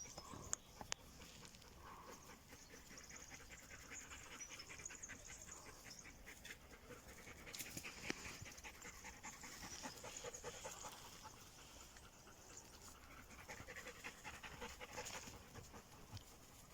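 A Belgian Malinois panting faintly and steadily, with a couple of small clicks about a second in.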